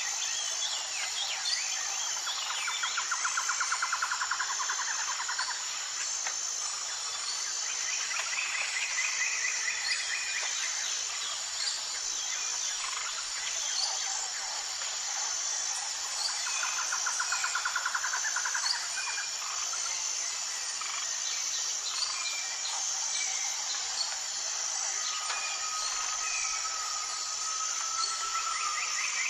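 Birds calling over a steady high-pitched insect chorus. Rapid trills come about three seconds in and again around sixteen seconds, with scattered chirps and a thin held whistle near the end.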